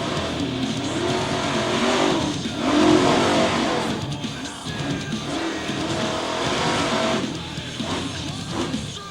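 Monster truck engine revving up and down repeatedly, with music playing along.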